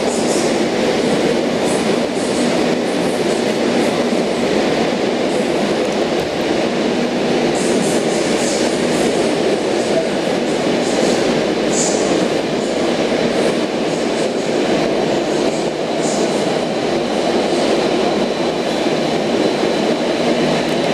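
Sydney Trains OSCAR (H set) electric train rolling into an underground platform: a loud, steady rumble of wheels on rail, with a few brief high hisses.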